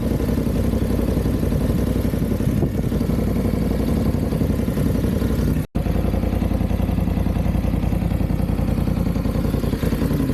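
Motorcycle engine running steadily while riding, with wind rushing over the microphone. The sound cuts out for an instant a little past halfway, then carries on as before.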